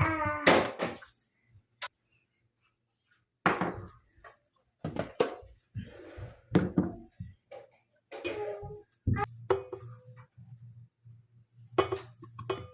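A small child's voice in short, wordless vocal bursts, with a few clicks and clinks like dishes being handled and a low steady hum from about four seconds in.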